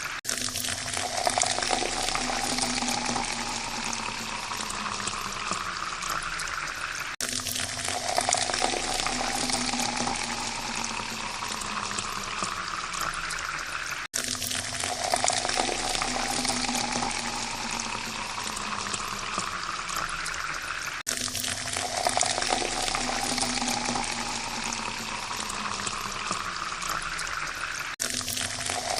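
Water poured into a glass, splashing steadily, its pitch rising as the glass fills. The pour breaks off and starts again about every seven seconds, four times over, like a repeating loop.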